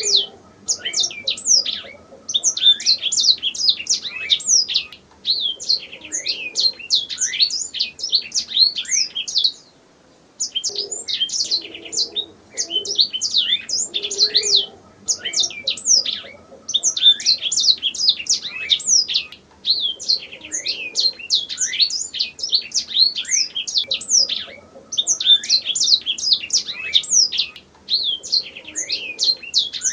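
Domestic canary singing: long phrases of fast, high twittering trills and rolls, broken by short pauses, with the longest pause about ten seconds in.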